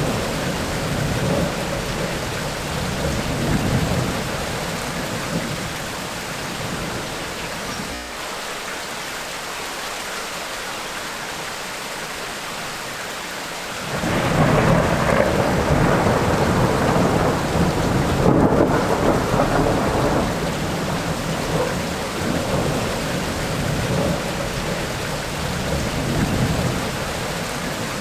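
Heavy tropical rain falling steadily, with thunder rumbling underneath. The thunder fades out about a third of the way in, leaving only the rain. About halfway through a loud roll of thunder breaks in suddenly and rumbles for several seconds before easing back.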